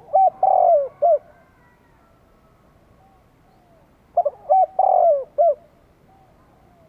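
Spotted dove cooing: two song phrases about four seconds apart, each a few short coos around one longer drawn-out note, the first right at the start and the second about four seconds in.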